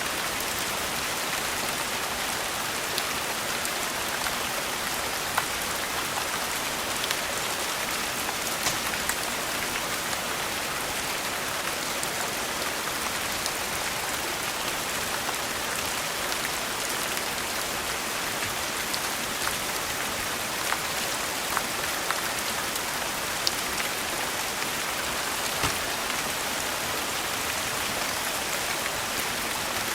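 Steady rain falling, with scattered sharp crackles from a wood fire every few seconds.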